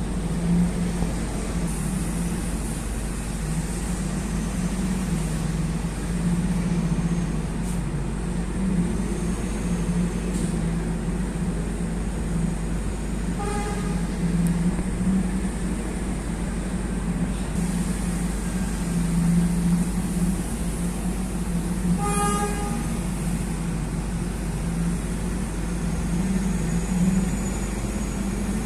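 Heavy diesel haul trucks running steadily, with a low engine rumble throughout. A truck horn gives two short toots, one about halfway through and another about 22 seconds in.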